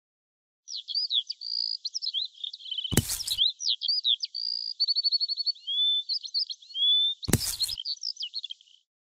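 A songbird singing a varied song of quick chirps, trills and short whistles, broken by two short knocks about four seconds apart.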